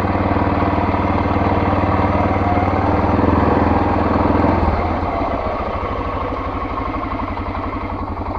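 A small off-road vehicle's engine running steadily under throttle, then easing off about four and a half seconds in to a lower, pulsing note.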